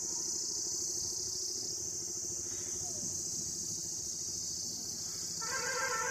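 Insects chirring in a steady high-pitched chorus, with a short pitched call near the end.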